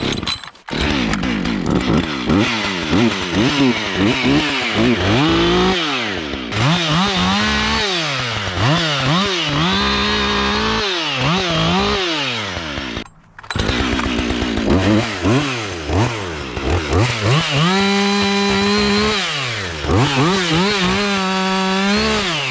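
Husqvarna 562 XP two-stroke chainsaw cutting wood, its engine pitch falling again and again as the chain loads up in the cut and climbing back as it revs free. The sound cuts out briefly about halfway through, then the sawing resumes.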